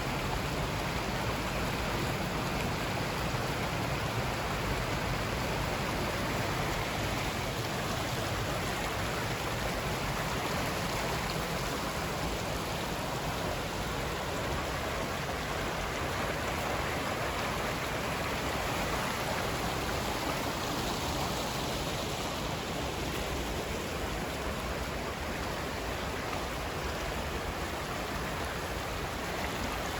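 Mountain stream water rushing, a steady unbroken noise.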